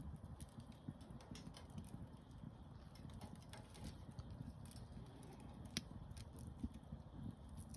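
Wood campfire burning, faintly crackling and popping with irregular small snaps over a low rumble, one sharper pop about six seconds in.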